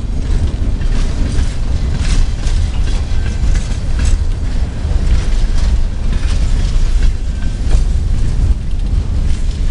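Freight train of boxcars rolling past close by: a steady deep rumble of steel wheels on the rails, with repeated sharp clacks as the wheels cross rail joints.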